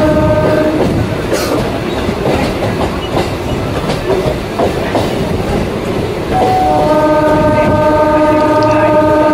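EMU local train running, with a steady rumble and wheels clicking over the rail joints. A multi-tone train horn is sounding as the sound begins and stops within the first second. It blows again about six and a half seconds in, opening with a brief higher note, and holds to the end.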